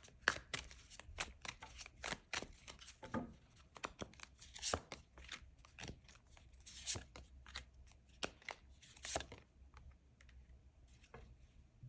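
Tarot cards being shuffled and handled: a run of quick, irregular card snaps and flicks for about nine seconds, then only a few faint clicks.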